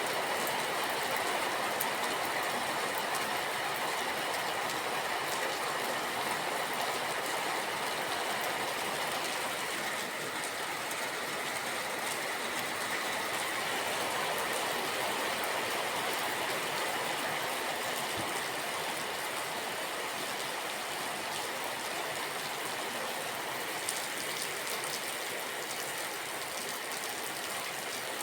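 Steady rain, an even hiss that holds at the same level.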